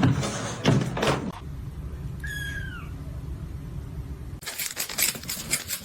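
A cat gives one short meow that falls in pitch a little over two seconds in. Scuffling thumps come before it, and a run of clattering knocks follows near the end.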